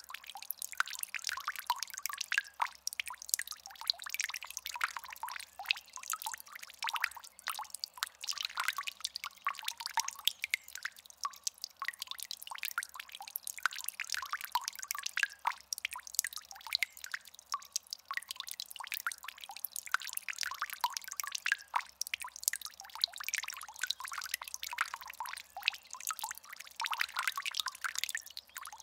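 Indoor tabletop water fountain running: a steady trickle and patter of water falling and dripping into its basin.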